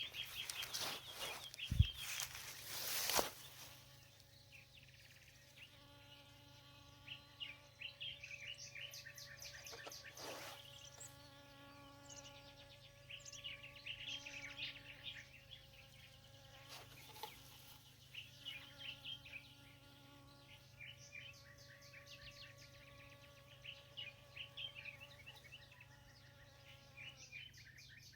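Faint steady buzzing drone, starting about four seconds in and stopping shortly before the end, with scattered bird chirps throughout. A few sharp knocks come in the first three seconds.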